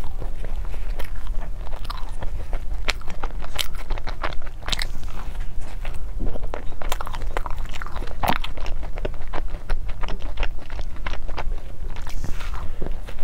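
Biting and chewing a tiramisu cream puff with a crisp, flaky choux shell: repeated crunchy crackles as the crust breaks, with chewing in between.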